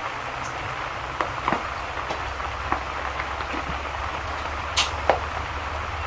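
Ambience of steady rain with a low rumble under it and irregular crackling pops from a fireplace, the sharpest pop about five seconds in.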